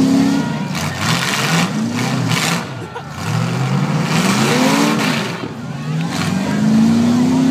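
Eight-cylinder demolition derby car engines revving hard, the pitch climbing and dropping several times as the cars accelerate and back off.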